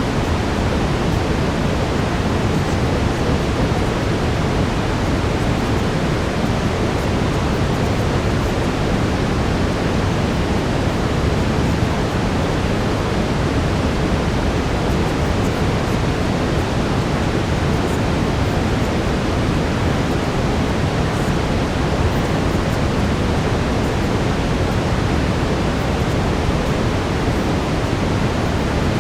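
Steady brown noise: an even, deep rushing hiss with most of its weight in the low end.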